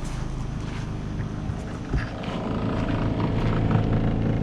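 A motor running with a steady low hum. There is a thump about two seconds in, after which it runs louder.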